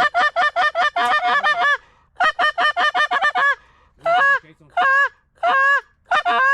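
Geese honking loudly: two rapid runs of short honks, then slower, longer drawn-out honks, each a little under a second apart.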